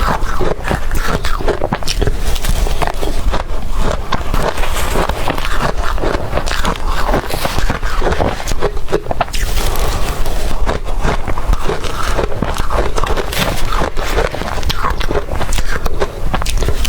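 Close-miked crunching of blender-crushed ice being bitten and chewed, a dense run of sharp crackles and crunches with no let-up.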